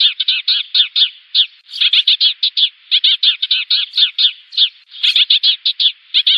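Sparrows calling in fast runs of short, sharp chirps, several a second, broken by brief pauses: the flock-gathering call used as a lure for trapping sparrows.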